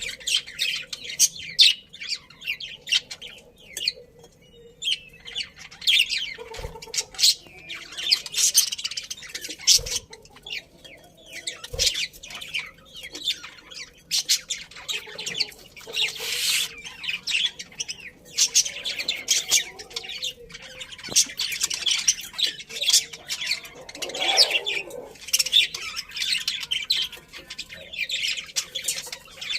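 A flock of budgerigars chirping and chattering continuously, rapid overlapping high chirps and squawks, with a few faint knocks.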